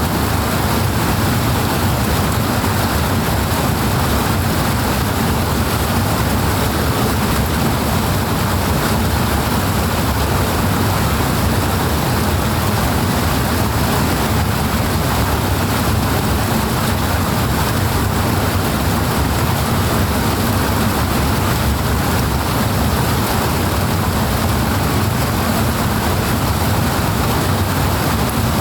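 Steady, unbroken rush of powerful flowing water, loud, with a deep rumble underneath.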